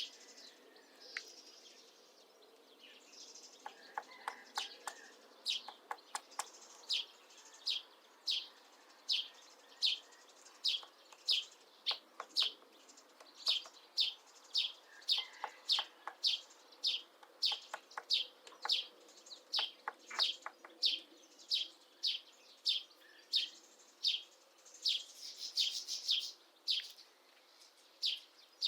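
A small bird calling a short, high, falling note over and over, about twice a second, with a few brief runs of quick taps in between: a Syrian woodpecker chiselling out a nest hole in apple wood.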